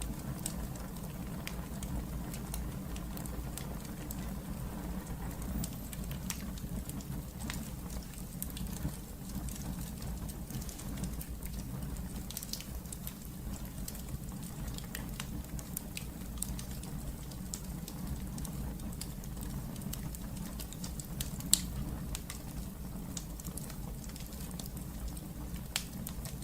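Wood fire burning in a fireplace: a steady low rumble of the flames with scattered sharp crackles and pops, one louder pop a little past two-thirds of the way through.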